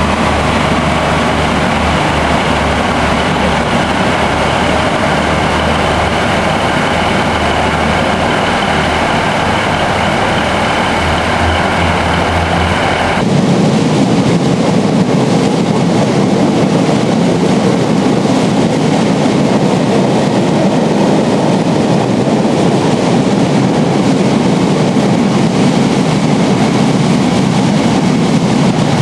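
Class 142 Pacer diesel unit's engine running with steady whining tones and a low drone as it moves off along the platform. About halfway through this cuts abruptly to a louder, continuous rumble of a freight train of covered hopper wagons passing close by.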